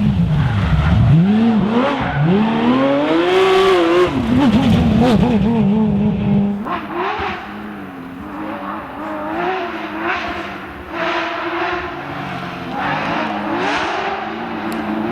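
Porsche rally car's flat-six engine revving hard, its pitch climbing and falling sharply through gear changes and lifts off the throttle. About six seconds in, the sound drops quieter and the engine note turns more distant, rising and falling in shorter sweeps.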